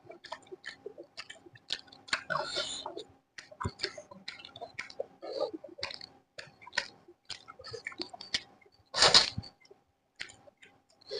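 Close-up eating sounds: chewing with irregular wet clicks and crunches of food in the mouth, and one louder, longer noisy sound about nine seconds in.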